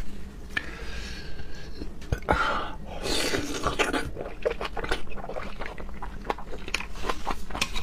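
Close-miked eating of a large sauce-marinated raw scallop: wet slurping, then chewing with many small, wet mouth clicks.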